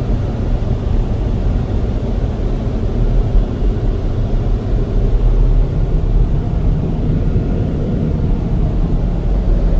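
Automatic car wash's high-powered air dryer blowers running, a steady loud rush of air heard from inside the car.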